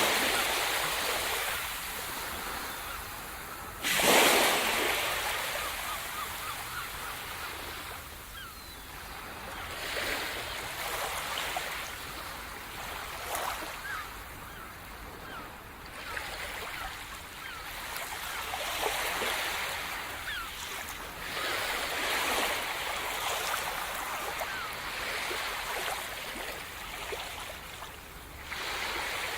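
Sea surf: a wave breaks sharply about four seconds in, followed by the hissing, fizzing wash of foam and water, with softer swells of surf rising and falling after it.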